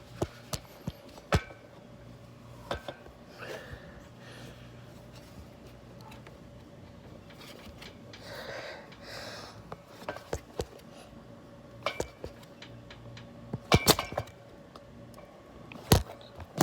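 Scattered sharp clicks, clinks and knocks of metal being handled as a tight part is worked loose by hand during an oil change, with a cluster of louder clicks near the end.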